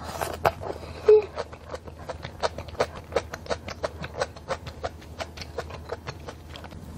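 Close-up eating sounds of mala tang noodles: a short slurp as a noodle goes in, then steady wet chewing with sharp mouth clicks about three or four a second. A brief louder squeak about a second in.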